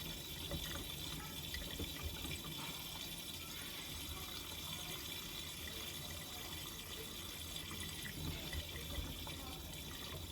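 Water splashing and running inside the drum of a Miele W3985 front-loading washing machine during its second rinse.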